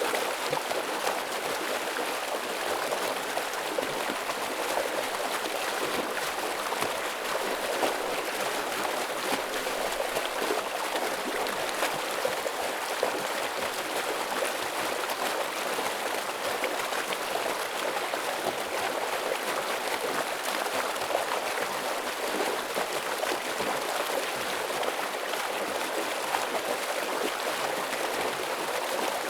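Heavy mountain stream rushing over rocks: a steady, dense splashing flow.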